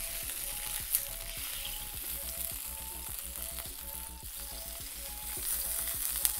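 A cauliflower steak sizzling as it fries in a nonstick pan, being turned with a spatula. The spatula knocks sharply against the pan about a second in and again near the end.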